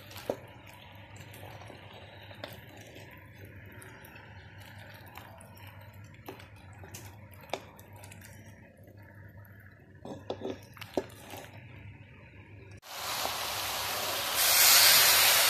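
Sliced nendran bananas being stirred in ghee in a pan with a wooden spatula: quiet scrapes and light taps on the pan, a few close together about ten seconds in. About thirteen seconds in, a loud sizzle of the slices frying in the ghee starts suddenly.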